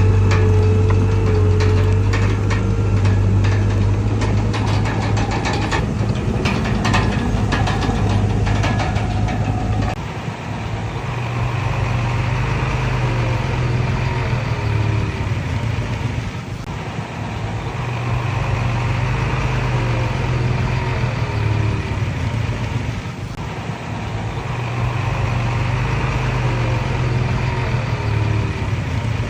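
Komatsu D31PX bulldozer's diesel engine working under load, with a run of metallic clanks in the first ten seconds. After that the engine note rises and falls every six or seven seconds.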